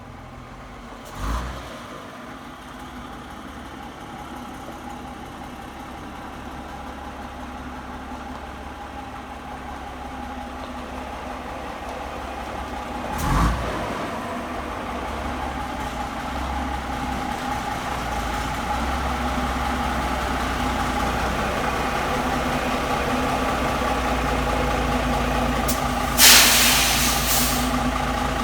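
Foden Fleetmaster's Gardner 6LXC six-cylinder diesel running steadily and growing louder. There are two short clunks, and near the end a loud hiss of compressed air lasts about a second and a half.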